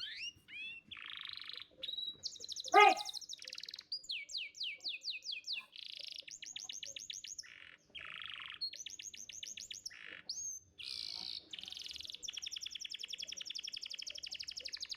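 Domestic canary singing: fast trills of rapidly repeated notes alternate with harsh, buzzy chattering passages. A short, louder, lower-pitched falling call cuts in about three seconds in.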